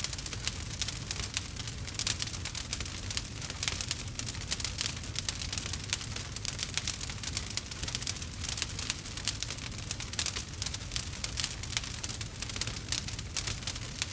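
Campfire burning with dense, continuous crackling and popping over a low, steady rumble of flames.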